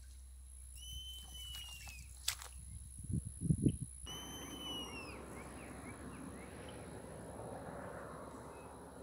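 A bird gives two long, slightly falling whistled calls, about three seconds apart. Between them come a few dull thumps, the loudest sounds, and a low rustling follows the second call.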